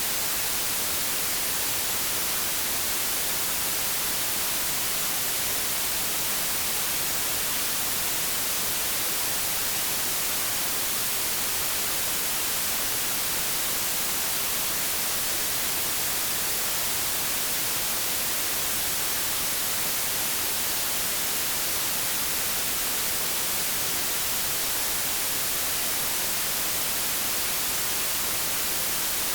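Steady white-noise static, an even hiss with no tone or events, heavier in the treble.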